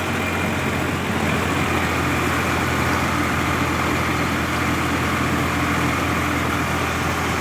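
Swaraj 744 XT tractor's three-cylinder diesel engine running steadily.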